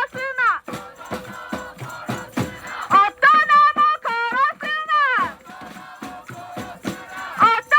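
Live music: a pitched melody of held notes, several ending in a falling slide, over a steady beat of shaken rattles and hand percussion, with a quieter stretch in the middle.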